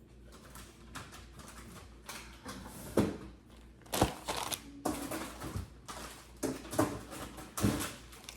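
Food containers and plastic packaging being handled while a fridge is cleared out: a series of sharp knocks and clatters with crinkling in between.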